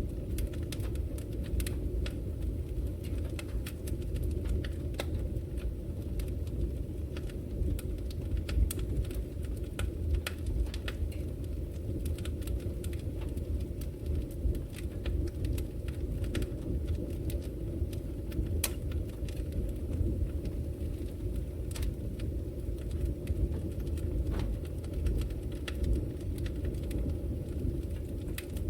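Wood fire burning in a brick fireplace: a steady low rumble of the flames with frequent sharp crackles and pops scattered throughout.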